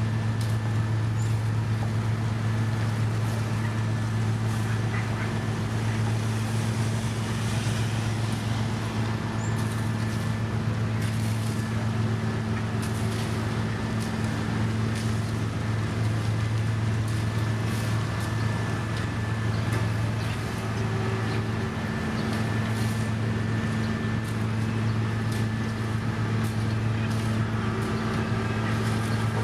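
Diesel engine of a heavy road-construction machine running steadily with a constant low hum and scattered light clicks.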